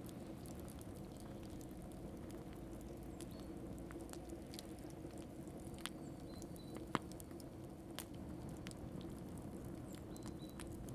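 Wood fire crackling: scattered sharp pops and snaps over a steady low rush, with one louder pop about seven seconds in.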